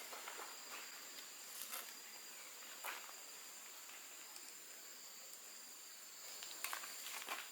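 Forest ambience: a steady high-pitched drone of insects, with a few faint scattered clicks and crackles, the loudest near the end.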